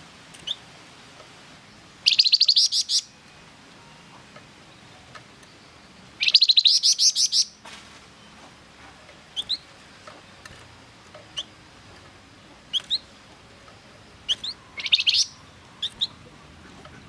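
Flamboyan songbird singing: sharp short rising chirps with three loud, fast rolling trills, about two seconds in, about six seconds in and near the end.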